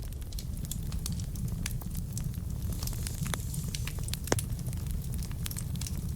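Wood fire burning in a fireplace: a steady low rumble of flames under frequent sharp crackles and pops of the burning logs, with one louder pop about four seconds in.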